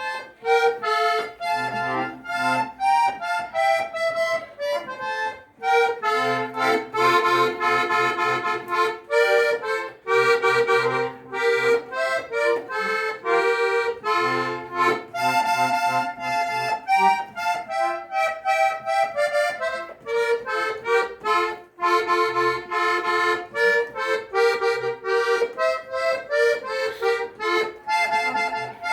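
Accordion music: a melody in held notes over chords, with short bass notes coming in underneath in phrases.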